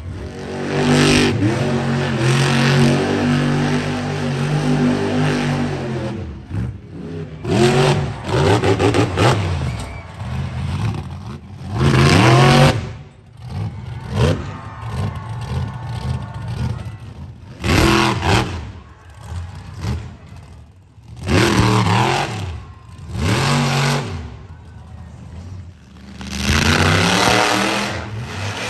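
Monster truck engine revving hard in repeated bursts, its pitch rising and falling, with quieter gaps between the bursts.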